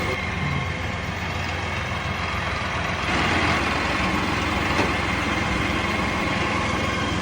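Farm tractor engine running steadily, getting a little louder about three seconds in.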